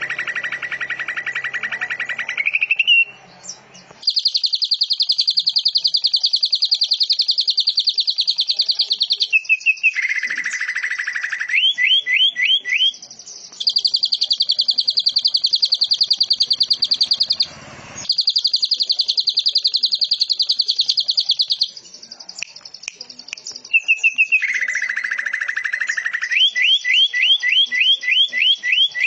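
Songbird song in long, very fast trills, each held for about four to five seconds and broken off abruptly. Short runs of quick rising chirps come between the trills, and near the end there is a steady series of rising chirps at about three a second.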